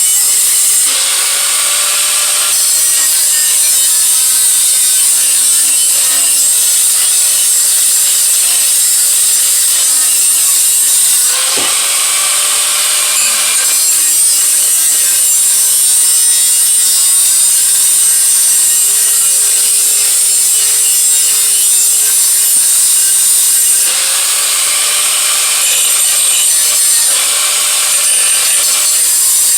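Handheld power tool running steadily against metal, abrading the exhaust head pipe, with its motor pitch sagging and recovering now and then under load.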